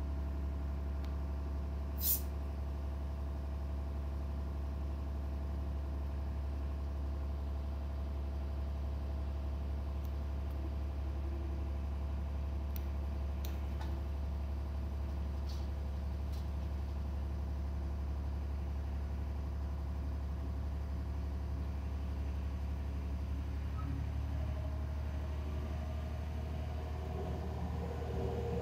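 DB Class 628 diesel railcar's turbocharged underfloor diesel engine running steadily, a low drone with a whine of steady tones over it. A sharp click comes about two seconds in. Near the end, higher tones grow stronger as the engine's note changes.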